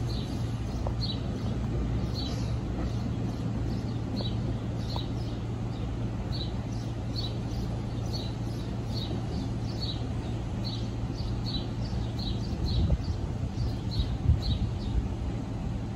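A small bird chirping over and over, short falling chirps about one and a half a second, over a steady low hum, with a few low bumps near the end.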